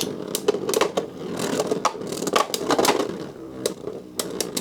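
Spinning Beyblade tops, one of them a Meteo L-Drago combination, whirring and scraping around a plastic Beyblade Burst stadium, with repeated sharp clacks as they strike each other and the walls. The whirring fades and thins out in the last second or so.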